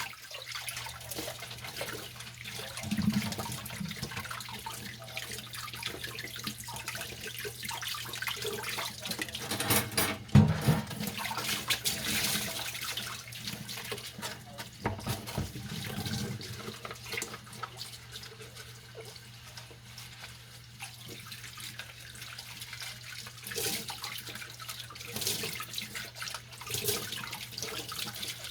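Dishes being washed by hand at a kitchen sink: tap water running steadily, with a few knocks and clatters of dishes, the loudest about ten seconds in. A low steady hum runs underneath.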